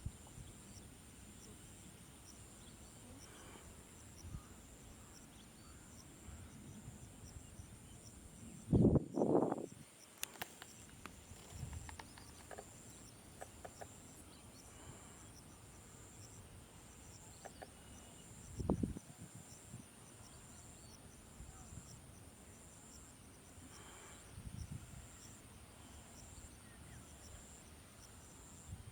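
Insects trilling steadily and high-pitched, with a regular pulsing chirp. Low thumps break through twice: a cluster about nine seconds in and another about nineteen seconds in.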